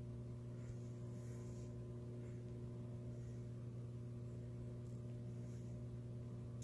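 Steady low electrical hum with no clear event, only a few faint soft high sounds.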